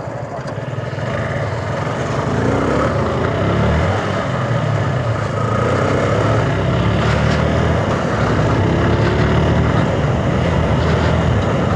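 Sports motorcycle engine running under way, its pitch rising as it accelerates a couple of seconds in and again later, with rushing air noise over the microphone.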